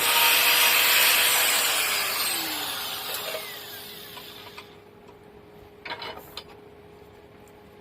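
Bench grinding machine working the forged steel striker, then winding down. Its noise fades and its whine falls in pitch over about four and a half seconds. A couple of light knocks follow near the end.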